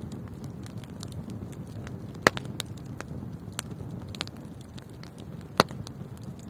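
Wood fire burning in a fireplace: a steady low rumble of flames with scattered small crackles, and two sharp loud pops, about two seconds in and again near the end.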